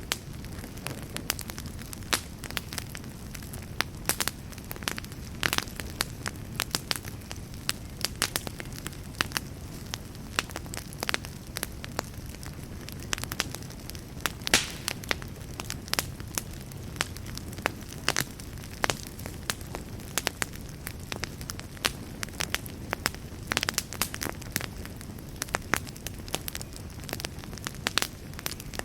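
Wood fire burning in a fireplace: a steady low rumble and hiss with sharp, irregular crackles and pops of the burning wood, several a second.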